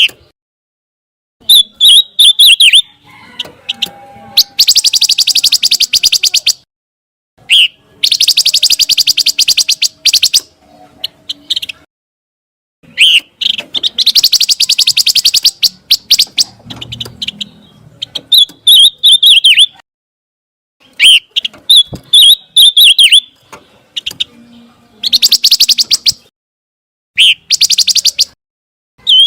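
Recorded song of a pancawarna bird, one phrase every few seconds with short gaps between. Short warbled whistles alternate with longer, very rapid high trills.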